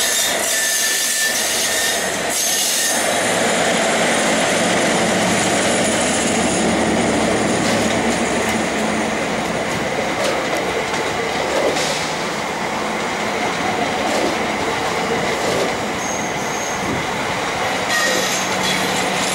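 Class 69 diesel locomotive passing and towing a new multiple unit. The coaches roll by with wheel noise and clicks over the rail joints, and a thin steady wheel squeal from the curving track.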